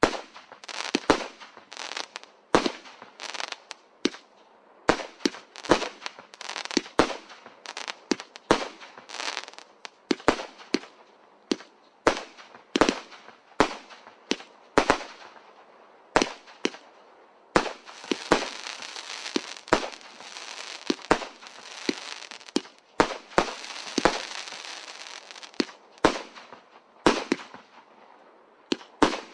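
Magic & Miracle 'Oceanic' firework going off: a rapid, irregular series of sharp bangs, with a stretch of dense crackling in the middle of the show.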